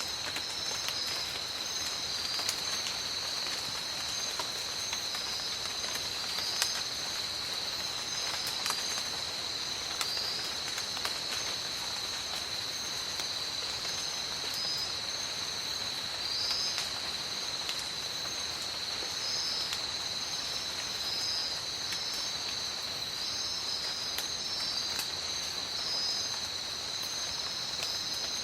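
Steady rain in a tropical forest, with scattered drops ticking, over a constant high insect buzz and a pulsing trill a little above it.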